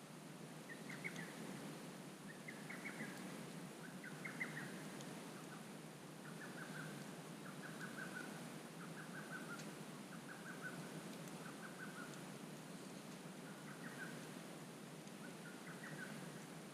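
A bird calling over and over in short, rapid chirping phrases, about one a second, against a soft steady background with a few faint crackles from the campfire.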